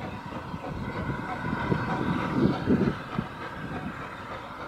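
Train running on rails: a steady rumble and hiss with irregular low clanks, a few heavier knocks about two to three seconds in.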